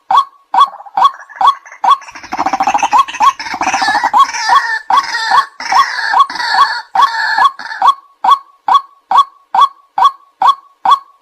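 White-breasted waterhen calling: a steady series of short, clipped 'kwak' notes, about two a second. From about two seconds in, this breaks into a louder, denser stretch of rapid, harsher calling, and about eight seconds in the even series resumes.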